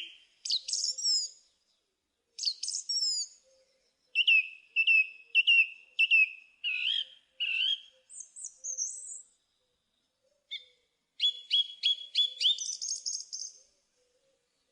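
Songbirds singing in separate whistled phrases with short pauses between them: a few sweeping slurred notes, then a run of repeated falling whistles, and near the end a fast trill.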